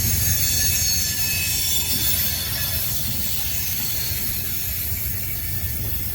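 Heavy freight train taking a sharp curve: steel wheels squealing against the rail in several steady high tones over a deep, steady rumble of the train.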